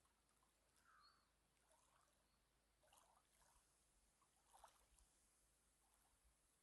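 Near silence: quiet lakeside morning ambience, with a few faint, short chirps and clicks scattered through it.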